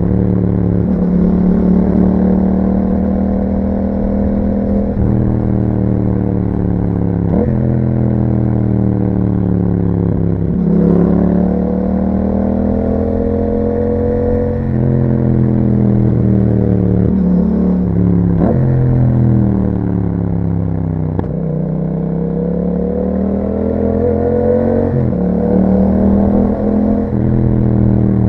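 Yamaha MT-07's parallel-twin engine through an Akrapovic exhaust, heard while riding: the engine note repeatedly climbs in pitch under throttle, then drops sharply at each gear change or roll-off.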